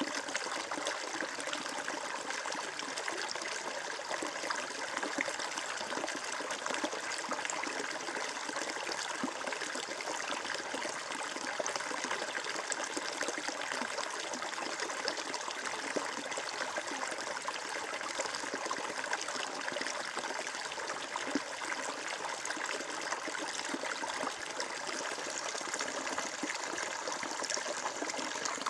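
Water flowing and trickling steadily, a continuous babbling rush with no change.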